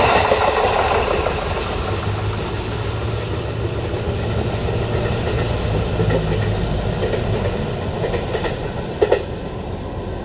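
Electric commuter train running on the line, its rolling noise steady and slowly fading, with one sharp clack about nine seconds in.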